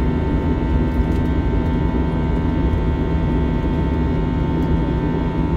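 Airliner cabin noise of an Airbus A321 with IAE V2500 engines: a steady, even roar of engines and airflow with several constant humming tones over it.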